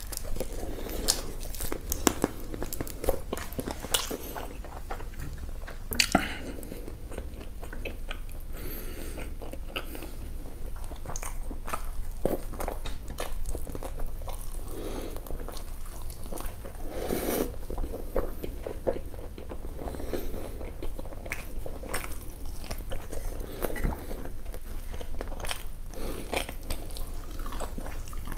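A person biting and chewing crunchy fried Indo-Chinese food, with many short, sharp crunches, the loudest about 2 and 6 seconds in.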